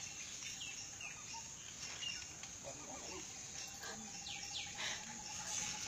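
Faint outdoor ambience with a few short bird chirps, and a faint steady high tone under them.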